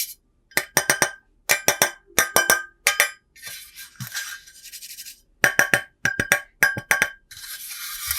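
Quick groups of three or four sharp clicks, each with a brief metallic ring, alternating with stretches of hissy scraping.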